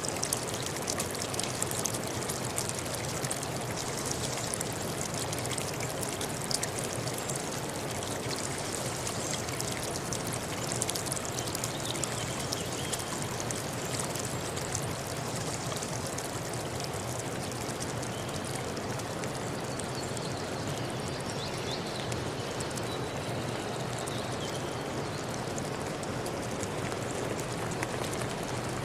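Forest river stream flowing: a steady rush of running water with small splashes and trickles. A few faint bird chirps come through in the second half.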